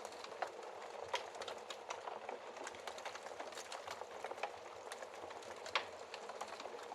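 Wood fire crackling in a fireplace: a steady hiss of burning wood with many small snaps, and two sharper pops, one about a second in and one near the end.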